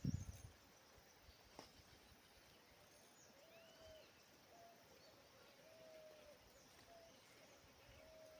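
Quiet riverside ambience with a bird's faint, repeated short calls, each held on one low whistled pitch, and a single higher call a few seconds in. A dull thump at the very start is the loudest sound.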